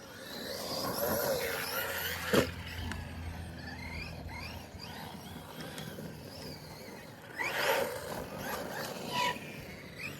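Arrma Kraton 4S RC monster truck's brushless motor whining up and down in pitch as it is driven, with a sharp loud thud about two and a half seconds in and another rush of noise near eight seconds.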